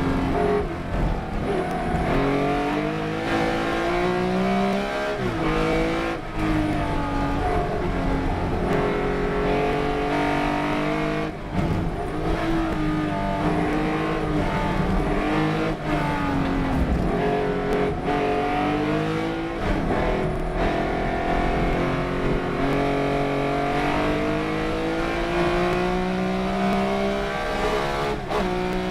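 Race car engine running hard on track, its pitch climbing and falling as it revs up and down through the gears, with brief cuts in sound at several gearchanges.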